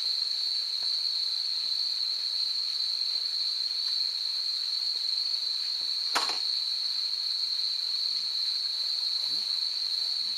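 Insects keep up a steady, high-pitched drone, with a single sharp click about six seconds in.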